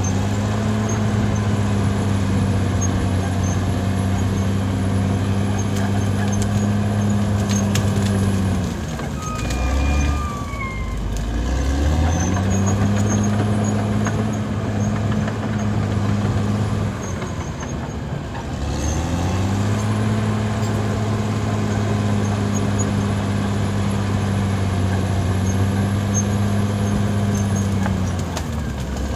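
Caterpillar D6R XL bulldozer's diesel engine running hard, its pitch sagging and then climbing back three times: about a third of the way in, past halfway, and near the end. A brief falling squeal sounds during the first dip.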